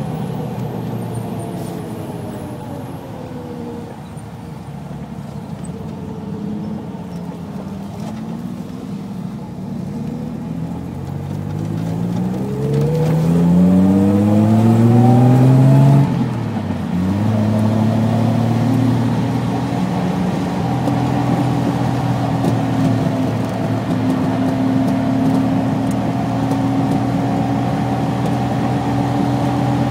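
Triumph GT6's straight-six engine heard from inside the cabin. The revs fall away at first, then climb steadily for several seconds until a sharp drop at a gear change about halfway through. After that the engine pulls up again and holds at fairly steady revs.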